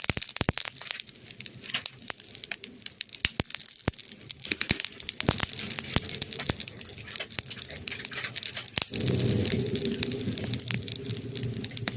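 Burning wood crackling, with frequent sharp pops and snaps over a soft hiss. About nine seconds in, a low steady rumble joins.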